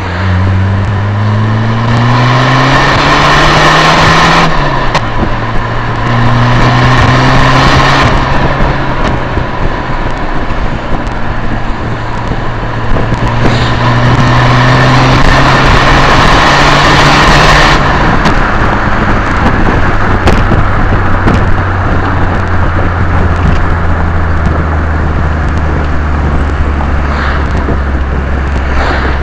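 VW Golf TD turbodiesel engine pulling hard twice, rising in pitch each time. A loud rushing hiss comes with it under boost and cuts off suddenly when the throttle lifts, about four seconds in and again after about eighteen seconds. This is the odd intercooler sound the owner is showing.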